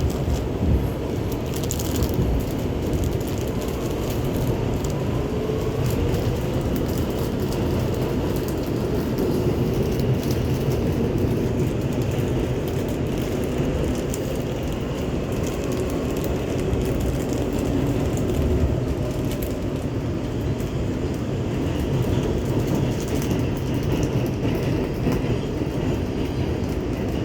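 New York City subway A train running at speed, heard from inside the car: a steady low rumble of wheels on rail. There are a few sharp clicks in the first couple of seconds and a faint rising tone a few seconds in.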